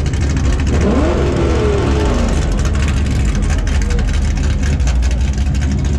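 A car engine running steadily at idle, a low even hum.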